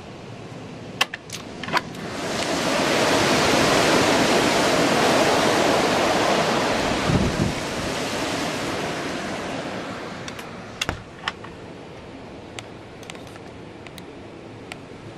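A strong gust of storm wind builds over a couple of seconds, blows hard for several seconds and then eases off. A few sharp clicks and knocks come just before and after the gust.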